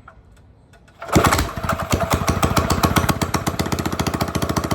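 Minibike's small single-cylinder engine pull-started: it catches about a second in and runs on with a fast, even popping beat. The carburetor is not yet tuned right.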